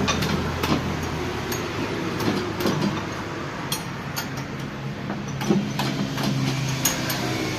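Scattered metallic clinks and taps of hand tools on tractor gearbox parts, over a steady low mechanical hum.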